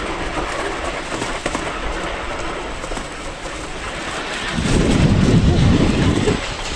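Wicker basket toboggan on wooden runners sliding down a paved road, a steady grinding, rattling rumble that swells louder for under two seconds near the end.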